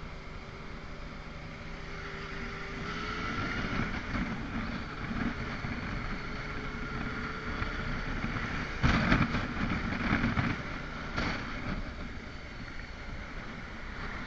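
Motorcycle engine running during a ride, its pitch rising about three seconds in as it picks up speed, under steady wind noise on the microphone. Two louder bursts of rushing noise come past the middle.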